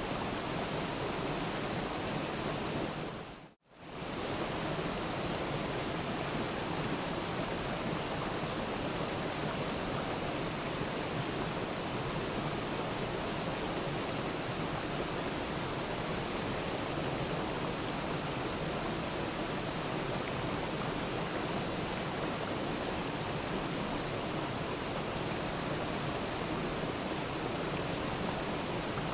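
Waterfall rushing: a steady, even hiss of falling water spread across all pitches. About three and a half seconds in it fades briefly to silence and comes straight back.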